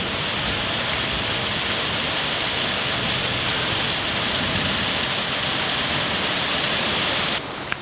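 Heavy rain falling in a steady, dense hiss, cutting off abruptly near the end.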